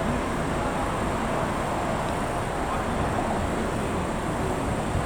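Steady rumble of passing rail or road traffic, even throughout with no distinct events.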